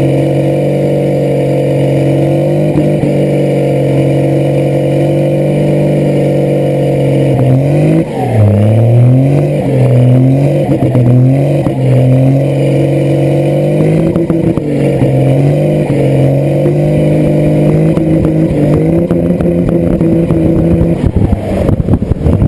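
An engine running steadily and loudly. About eight seconds in it is revved, its pitch dipping and rising several times over some six seconds, before settling back to a steady run.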